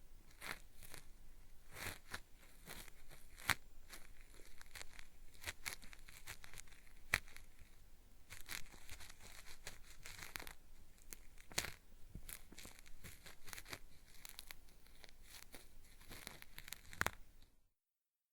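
Cotton swab scratching and rubbing in the ear of a binaural microphone, a dense, dry, crackly scraping with many sharp clicks, in a peeling-style ear-cleaning sound. It cuts off abruptly near the end into complete silence.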